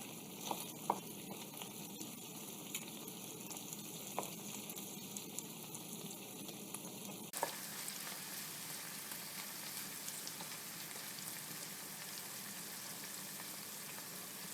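Onions frying in hot oil in a pan, with a steady sizzle and a few light clicks in the first half. The sizzle changes abruptly about halfway through.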